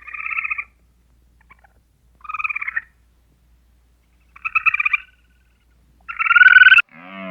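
An animal's rapid, trilled calls, four in a row about two seconds apart, each about half a second long, the last one the loudest.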